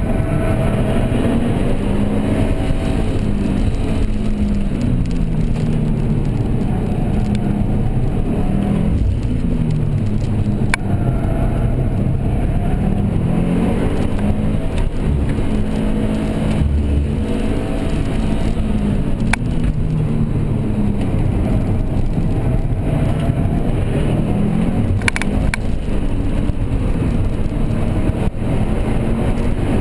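Car engine under hard driving, its pitch rising under acceleration and dropping back again and again, over a steady bed of road and tyre noise.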